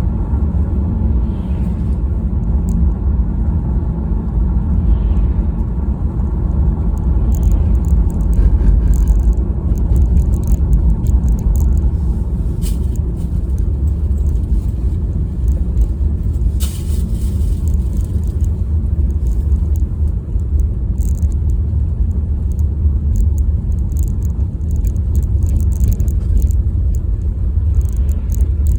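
A car driving, giving a steady low rumble of engine and road noise, with scattered faint ticks.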